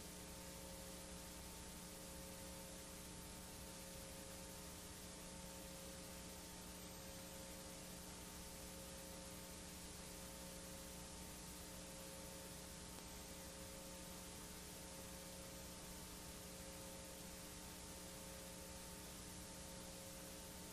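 Steady, faint hiss with a constant electrical hum underneath and nothing else: the noise floor of a blank, unrecorded stretch of videotape.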